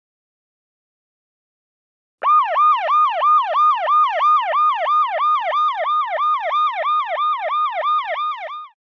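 Police car siren in a fast yelp: a pitched tone sweeping up and down about three times a second, starting about two seconds in and stopping shortly before the end.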